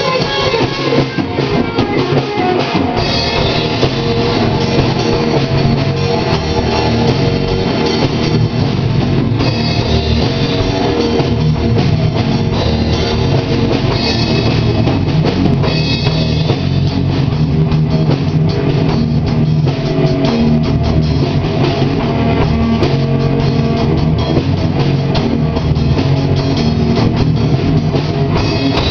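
Instrumental rock music: full drum kit with bass drum under electric guitars, playing steadily.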